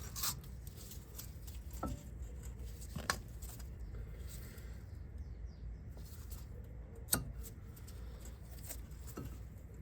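Faint scratching from a wire brush cleaning a car's front brake caliper bracket, with a few sharp metal clicks of tools against the parts.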